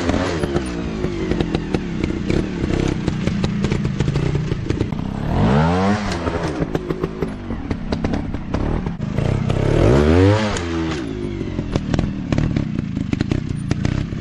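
Dirt bike engine running, blipped up to high revs and back down three times about every five seconds, with rattling clatter in between.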